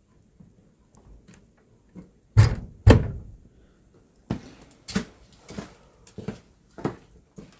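A series of knocks and thuds: two loud thuds about half a second apart a couple of seconds in, then lighter knocks roughly every half to three-quarters of a second.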